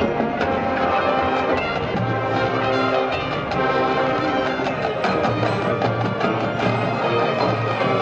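High school marching band playing its field show: brass sustaining chords over low brass notes, with drumline and pit percussion strokes.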